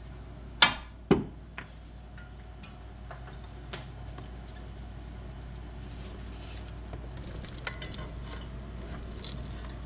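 Two sharp metal clanks about half a second apart, then light scattered clicks of metal parts and tools being handled as a nut is started on a suspension stud, over a steady fan hum.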